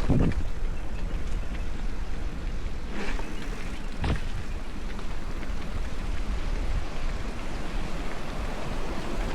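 Wind rushing over the microphone and tyre noise of a mountain bike rolling along a trail. A few short knocks from bumps come near the start and about three and four seconds in.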